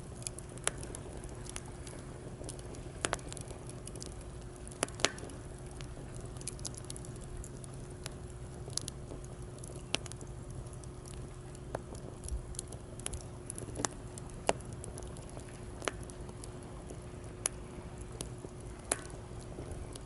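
Wood fire in a fire stand crackling, with sharp irregular pops about once a second over a steady low rush of surf.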